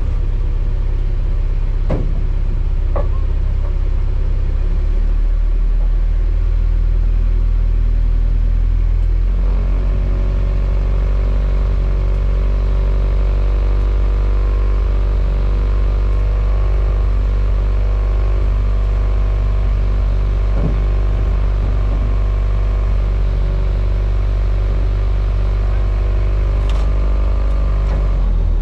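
Lada Niva driving with its engine running and a loud low rumble. About nine seconds in, the engine settles into a steady, even note, and a few short knocks sound along the way.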